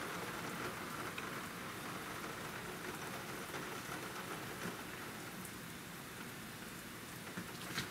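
Heavy rain falling steadily: a constant hiss of a downpour.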